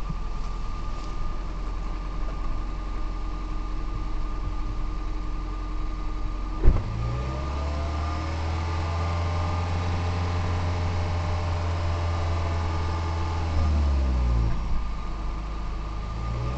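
2008 Toyota Prius's 1.5-litre four-cylinder petrol engine heard at the exhaust: running at a steady idle, then after a sharp click about a third of the way in the revs rise and hold steady for several seconds before dropping back near the end.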